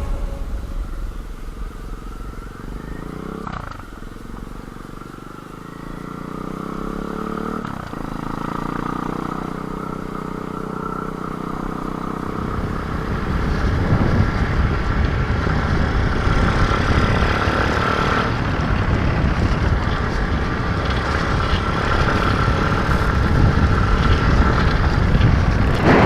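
Nitro Sky 125cc pit bike's single-cylinder four-stroke engine running at low revs for the first half, its pitch rising and dipping a couple of times. About halfway through it gets louder and rougher as the bike is ridden on, with the engine and wind noise mixing together.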